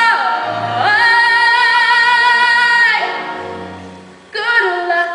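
A woman's singing voice holds one long note with vibrato over musical accompaniment, then glides down; a shorter sung phrase follows near the end.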